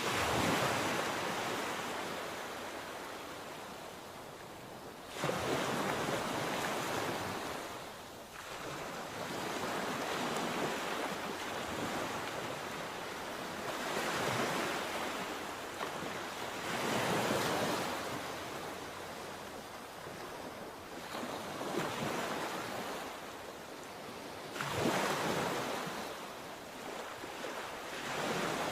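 Sea waves breaking on the shore, the surf swelling and falling back every three to five seconds, about seven times.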